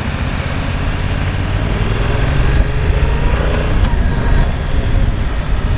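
Motorcycle on the road heard from the rider's camera: a steady, loud rumble of wind on the microphone over the running bike and traffic.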